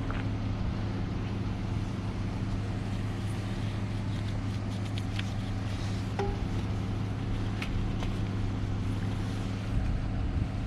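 A steady low motor hum, with a few faint clicks and taps over it.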